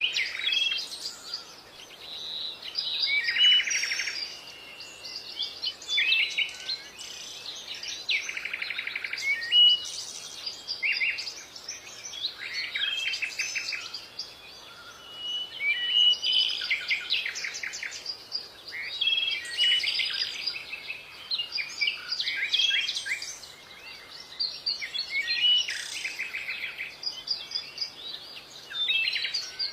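Songbirds singing: a steady stream of overlapping chirps, short whistles and quick trills.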